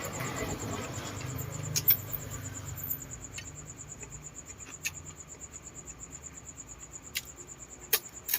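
Insects, likely crickets, chirping in a steady, rapid high-pitched pulse, with a few sharp clicks or taps scattered through.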